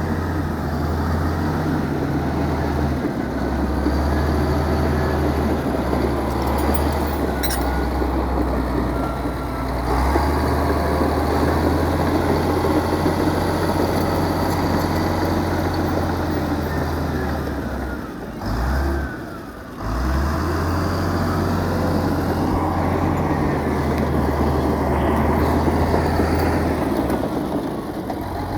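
Heavy diesel engine of earthmoving machinery running with a steady low drone, its note shifting with load every few seconds. The sound briefly drops away about two thirds of the way through, then returns.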